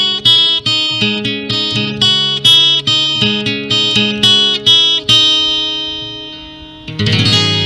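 Acoustic guitar music: a picked melody of quick plucked notes, then a single note left ringing, and a strummed chord about seven seconds in.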